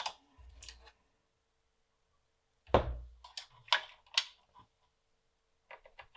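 Clicks and knocks of a floppy drive's latch mechanism being worked by hand, freshly greased with silicone grease and still a little stiff. There are a few light clicks, one heavier knock about three seconds in, then several sharper clicks.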